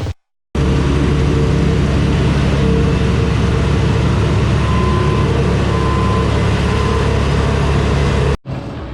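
A machine engine running steadily and loud, heard close up, with a constant low hum. It cuts in abruptly about half a second in and cuts off abruptly near the end.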